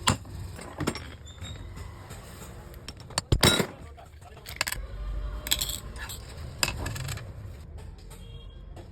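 Irregular sharp metallic clicks and clinks of a grinder and its parts being handled, the loudest clatter about three and a half seconds in.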